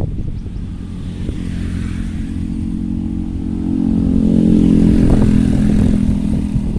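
A motor vehicle's engine passing close by, growing louder to a peak about five seconds in, then easing off slightly.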